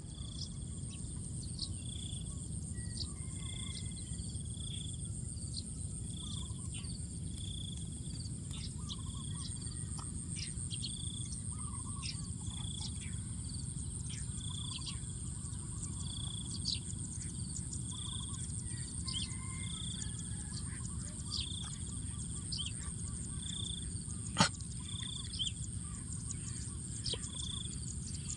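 Rural field ambience: birds chirping, one of them repeating a short call about once a second, over a steady high-pitched buzz and a low rumble. A single sharp click sounds late on.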